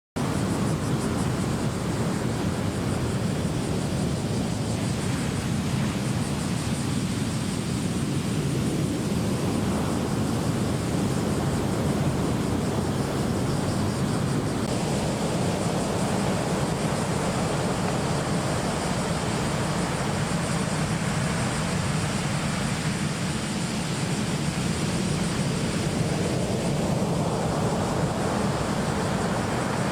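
Steady rushing noise of surf and wind from typhoon-driven waves, starting abruptly.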